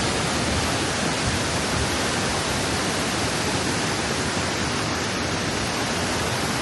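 Waterfall crashing down, a steady, unbroken roar of falling water.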